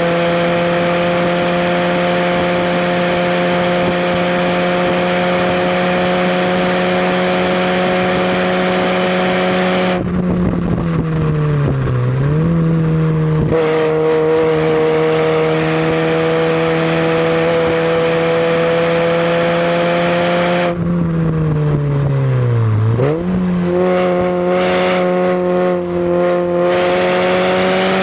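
Fiat barchetta's 1.8-litre four-cylinder engine heard from inside the open cabin at high revs under load. Twice the throttle lifts and the revs drop, then jump back up and climb again, rising toward the end.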